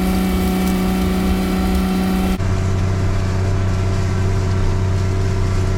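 Farm machinery engine running steadily at a constant speed. About two seconds in the sound changes abruptly to a lower, steady engine drone with less hiss, as at a cut to another shot.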